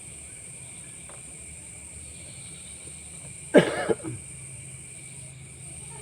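A man coughs once, loudly, about three and a half seconds in, with a smaller cough right after. Night insects keep up a steady high chirring throughout.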